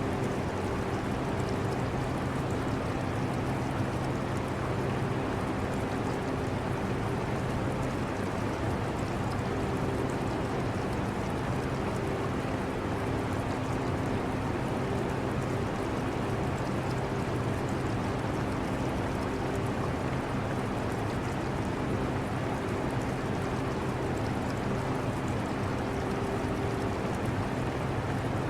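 Portable air conditioner running with a steady hum, mixed with the trickling water of an aquarium.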